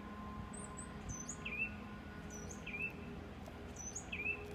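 A small songbird calling: three short, quick chirps about a second and a half apart, with fainter, higher notes between them.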